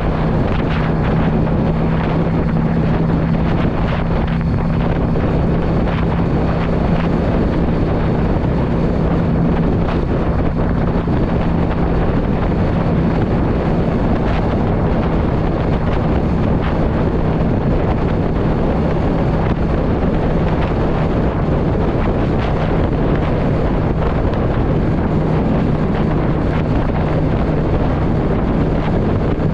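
Yamaha V Star 650 cruiser's air-cooled V-twin running at a steady cruising speed, its pitch holding even, under heavy wind noise on the microphone.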